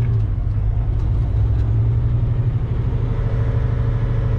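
Kenworth semi-truck's diesel engine running steadily with a low drone while the truck is under way.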